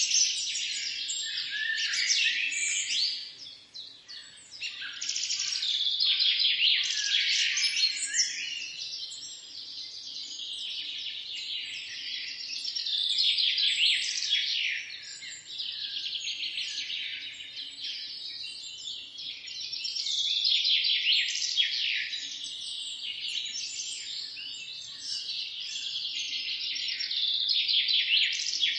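Dense chorus of many birds chirping and trilling at once without a break, swelling and easing in waves, with a brief lull about three seconds in.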